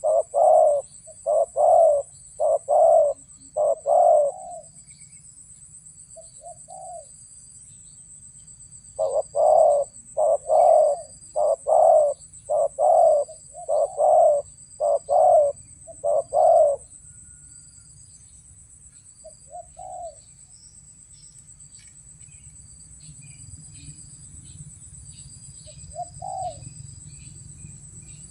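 Spotted dove cooing: two long runs of deep, evenly repeated coos, then single coos spaced several seconds apart. A steady high insect drone and faint small-bird chirps sound behind.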